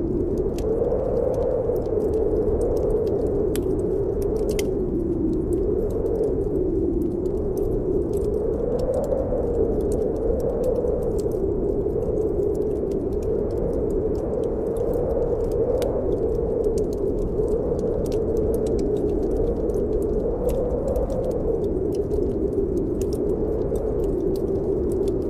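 Snowstorm wind howling steadily, its pitch slowly rising and falling, with a wood fire crackling in scattered sharp pops.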